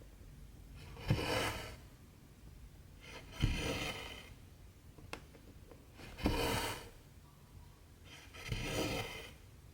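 Cotton embroidery thread drawn through 14-count stamped cross-stitch fabric, four rasping swishes about two and a half seconds apart, each opening with a small tap as the needle goes through.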